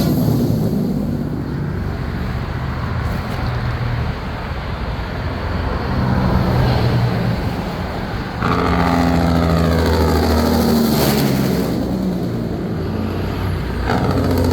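Diesel semi trucks driving past one after another, engines running steadily; a louder truck comes by about eight seconds in, its engine note sliding as it passes.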